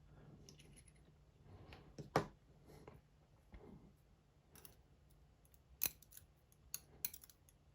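Scattered small metallic clicks of lock parts and tools being handled while the pins are taken out of a Dom IX Twinstar lock, one sharper click about two seconds in and a few more near the end.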